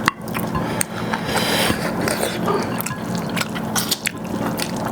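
Close-up eating sounds of chicken gravy and rice: chewing with many short, wet mouth clicks.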